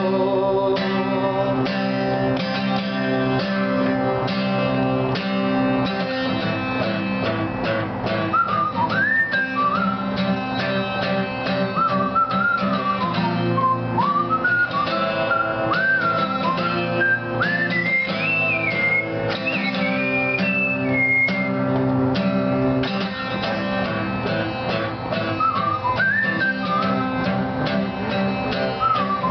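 Guitar strummed steadily, with a whistled melody over it that comes in about eight seconds in, stops around twenty seconds, and returns near the end.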